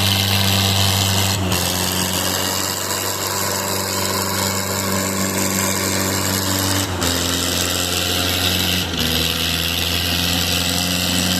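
Mahindra tractor diesel engines running hard under load, straining against each other in a tractor tug-of-war. The engine note holds steady, with small shifts in pitch a few times.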